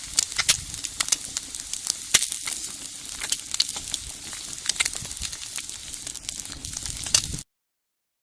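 Cooking over the wood fire of a homemade brick rocket stove: a steady sizzling hiss with sharp crackles and pops scattered all through, which cuts off suddenly near the end.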